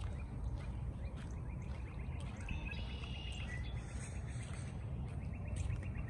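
A bird's rapid trill, a quick string of evenly spaced chirps, heard about two and a half seconds in and again near the end, over a steady low rumble.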